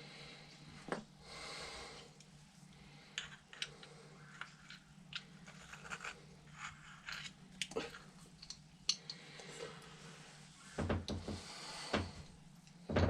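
Small metal carburetor parts and hand tools being handled on a workbench: scattered light clicks and taps, with a run of louder knocks about eleven seconds in.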